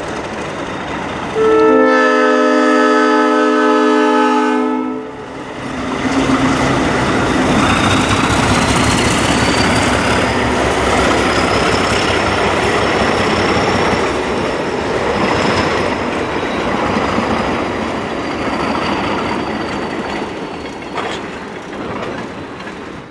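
Alco diesel locomotives on the move: one long blast of a multi-chime air horn about a second and a half in, lasting about three and a half seconds, then the locomotives pass with a loud, steady rumble of engines and wheels on rail, a faint high whine rising and then falling over it.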